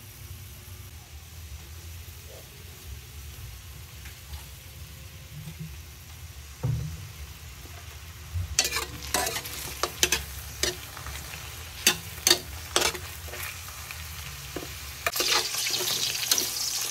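Sausages frying in oil in a stainless steel wok over a low steady hum. From about halfway there are sharp pops and crackles of spattering fat, and near the end a louder steady sizzle sets in as they are turned with tongs.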